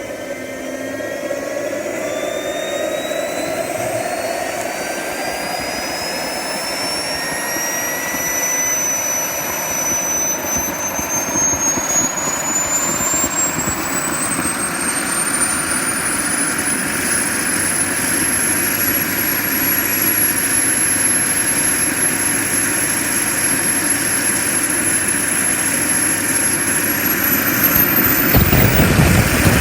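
JetCentral model turboprop turbine spooling up: a high whine climbs steadily in pitch for the first two-thirds, then holds steady under a running roar. Near the end the whine rises again and a loud rush of low noise comes in.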